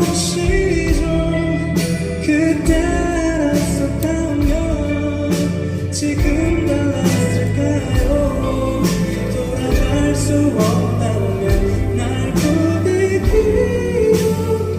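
Live band music for a pop ballad, with a steady drum beat.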